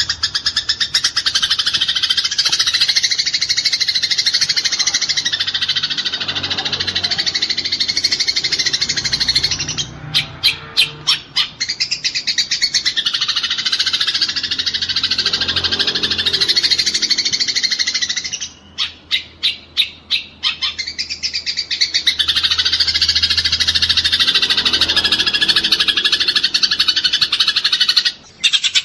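Eurasian tree sparrows chirping in a dense, rapid, continuous chatter, the agitated calling of sparrows fighting. Twice, around ten seconds in and again around nineteen seconds in, the chatter thins into separate quick runs of chirps before the dense chatter resumes.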